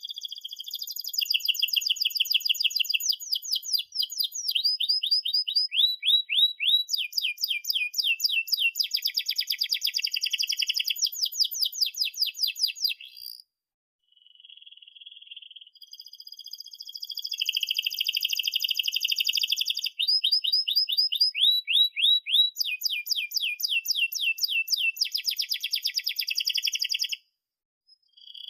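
Domestic canary singing long, dense song phrases of fast trills, rolls and chirps. There are two long bouts, each broken by a short silence: one about halfway through and one near the end.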